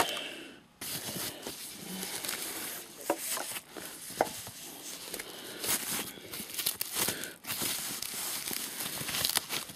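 Packaging crinkling and rustling as a boxed rackmount unit is pulled out of its box and wrappings, with many small crackles and clicks. It stops briefly under a second in.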